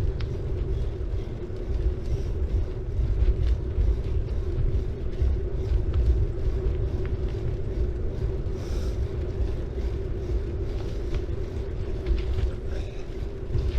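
Bicycle riding sound: tyres rolling on the road with heavy wind rumble on the camera's microphone, a steady low hum and scattered small ticks.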